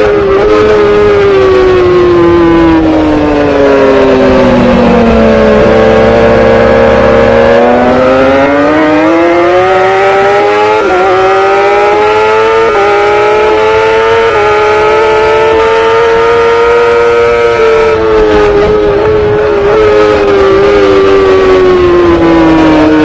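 Superbike engine at racing speed, heard on board. The revs drop over the first few seconds as the rider brakes and shifts down. They then climb through a series of upshifts and hold high, before falling away again near the end.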